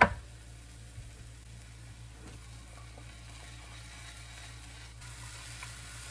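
Food sizzling faintly in a frying pan, a steady soft hiss, with a sharp knock right at the start.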